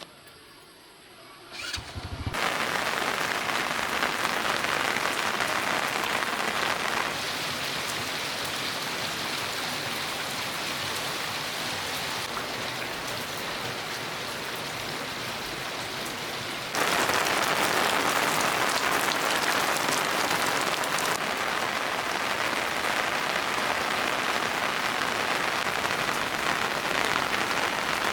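Heavy rain pouring down in a dense, steady hiss. It begins abruptly about two seconds in, and its loudness jumps suddenly twice.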